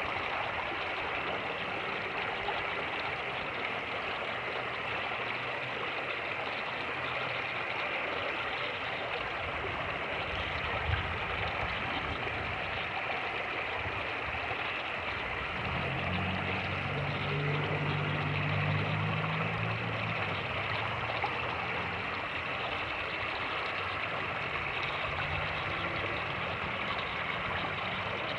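Fast-moving creek water rushing steadily. About halfway through, a low engine drone comes in for several seconds and fades again. There is a single brief thump shortly before that.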